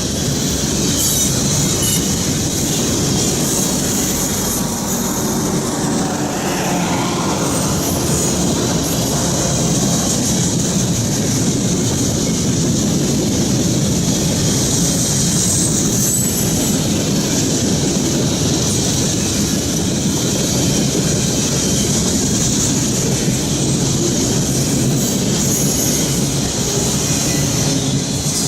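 Norfolk Southern freight cars rolling past: a steady, loud rumble and clatter of steel wheels on the rails, with a continuous high-pitched wheel squeal over it.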